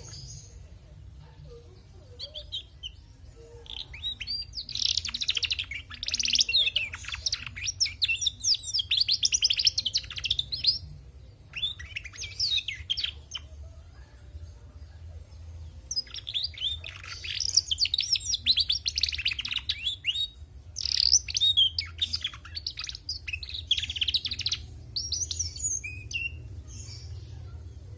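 Female domestic canary singing in rapid twittering phrases of quick high chirps, several bursts of a few seconds each with short pauses between.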